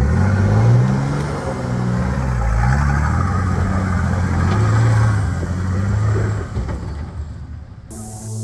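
A four-wheel-drive ute's engine revving up and down under load as it crawls up a rutted dirt hill climb. Music cuts in abruptly near the end.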